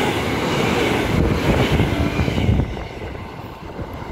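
Transperth A-series electric train running through the station at speed without stopping: a loud rush of wheels and air, with its slipstream buffeting the microphone, falling away about two and a half seconds in as the train passes.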